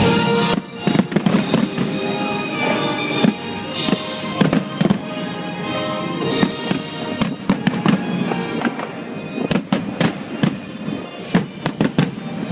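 Fireworks going off over music, with many sharp bangs and crackles coming irregularly, some in quick clusters. Under them the music holds long, sustained notes.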